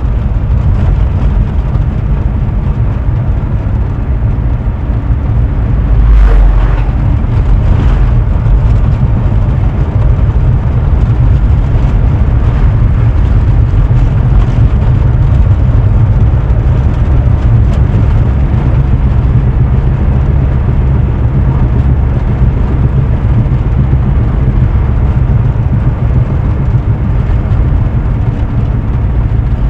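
Volkswagen Kombi driving, heard from inside the cab: a steady low rumble of road and running gear, loudest for a couple of seconds about six seconds in. It carries the noise from the right wheel that the occupants take for a failing wheel bearing.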